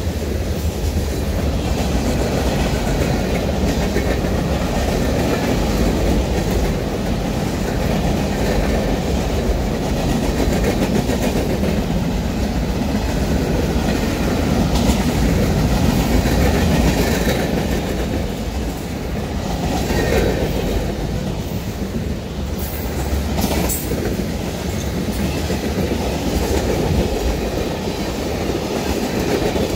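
Union Pacific manifest freight train's cars rolling past steadily, steel wheels running on the rails, with a few brief sharp noises about two thirds of the way through.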